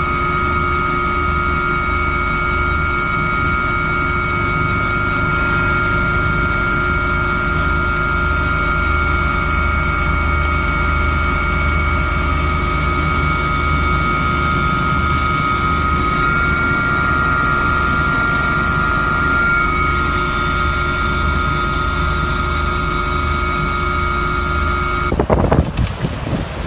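A steady motor hum with a constant high whine, cutting off abruptly near the end and giving way to gusty wind and water noise.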